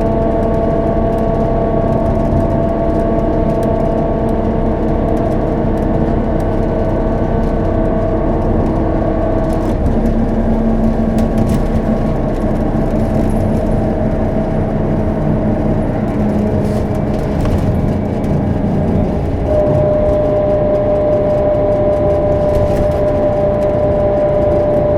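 A Scania K270UB bus's DC9 five-cylinder turbodiesel and ZF Ecomat automatic gearbox running under way, heard from inside the cabin. It is a steady drone with whining tones that shift pitch about ten seconds in and again a little before twenty seconds.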